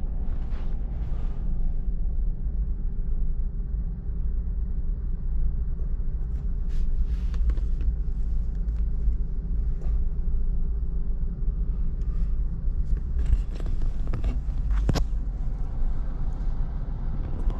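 Steady low road and engine rumble inside a kei van's cabin while it drives, with a few faint clicks.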